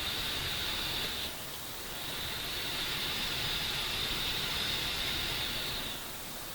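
Steady rushing hiss that dips briefly about a second in and again near the end.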